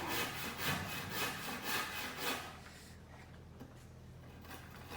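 Fast back-and-forth rasping strokes on wooden planks, about four a second, that stop about two and a half seconds in and start again near the end.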